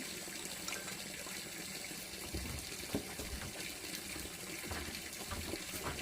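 Water running steadily, with a few small knocks and clicks.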